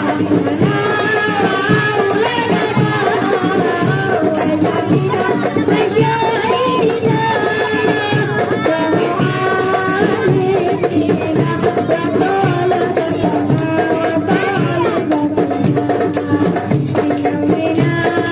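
Marawis ensemble playing: hand drums and jingling tambourine keep a steady rhythm under a melodic line.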